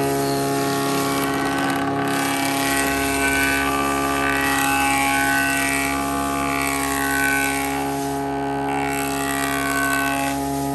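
An electric woodworking machine running steadily, a motor hum made of several fixed tones, with higher tones wavering through the middle of the run.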